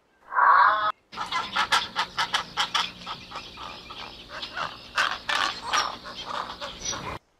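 Bird calls: a short call, then after a brief break a run of many quick, sharp calls lasting about six seconds, which stops abruptly.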